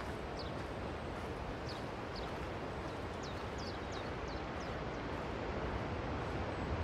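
Steady rush of ocean surf, with small birds chirping: many short, high, falling notes, scattered in the first few seconds. A low rumble grows louder near the end.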